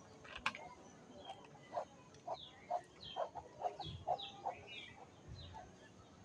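Desi chickens clucking: a run of short clucks about two a second, with thin, high, falling peeps over them. It tails off near the end.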